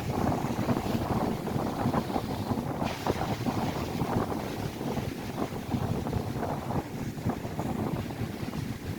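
Gusty wind rumbling and buffeting on the microphone, over the wash of lake waves breaking on the shore.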